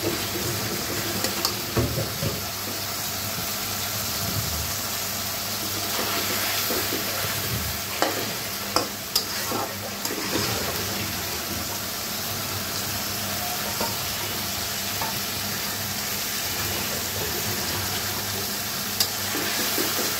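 Chicken pieces in thick spiced gravy sizzling in a heavy black karahi while a flat spatula stirs them, scraping and tapping against the pan now and then. This is the koshano stage: the meat and masala are being fried down until the gravy thickens.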